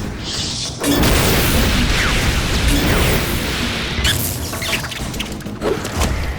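Cartoon battle sound effects over orchestral-style score: a loud rushing blast starts about a second in and lasts about three seconds, followed by a couple of shorter whooshes.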